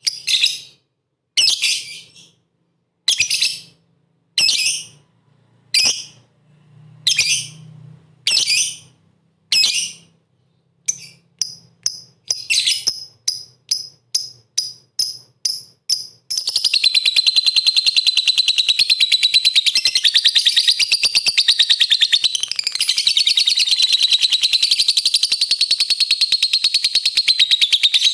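Lovebird calling: single sharp, high chirps a little over a second apart, coming faster after about ten seconds, then breaking into a long, unbroken rapid trill, the sustained song of a lovebird in full voice (gacor).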